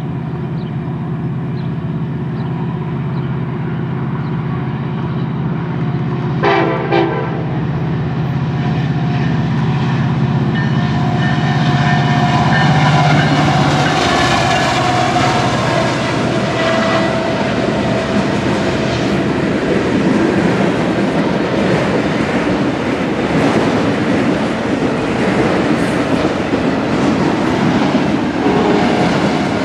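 Union Pacific diesel locomotive approaching with its engine drone, giving a brief horn blast about six and a half seconds in, then passing close by. After it goes past, the freight cars rumble by with wheels clicking over the rail joints.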